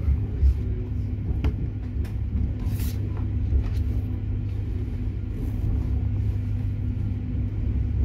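Bombardier Régio2N electric multiple unit running, heard from inside the passenger cabin: a steady low rumble with a faint steady hum, and a few sharp clicks in the first few seconds.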